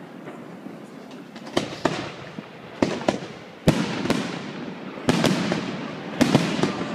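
Fireworks going off in a series of sharp, irregular bangs that echo after each one. The bangs start about a second and a half in over a steady background of more distant bursts.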